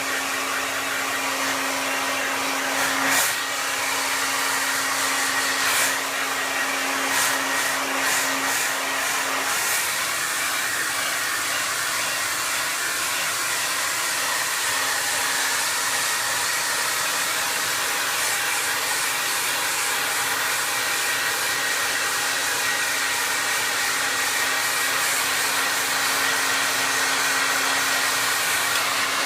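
Hand-held hair dryer blowing steadily: a constant rush of air with a low hum and a faint high whine, with a few brief louder moments in the first ten seconds.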